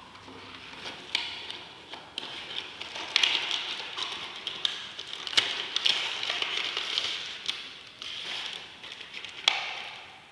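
Headset packaging being opened by hand: crinkling and rustling of the box and wrapping, with sharp clicks and taps now and then.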